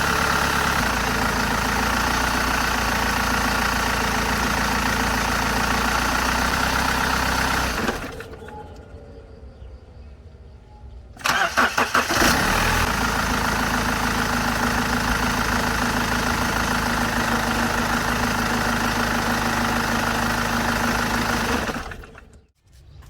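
BMW 520d's M47 four-cylinder diesel engine idling, shut off about 8 seconds in, cranked and restarted about three seconds later, idling again, then shut off near the end. Belt drive with a new automatic tensioner, idler pulley and belt: the squeal it used to make at start-up and shut-off is gone.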